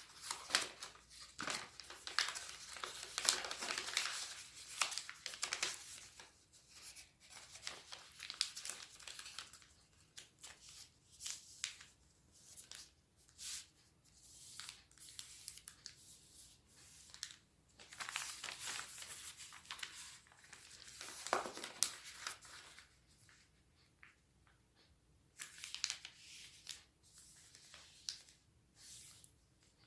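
A sheet of origami paper being folded and creased by hand, crinkling and rustling in irregular bursts with short pauses between folds.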